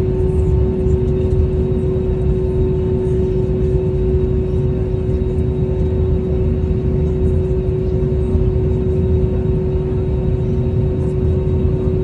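Steady cabin noise of an Airbus A320neo with Pratt & Whitney geared turbofan engines: a dense low rumble with a constant hum over it, unchanging throughout.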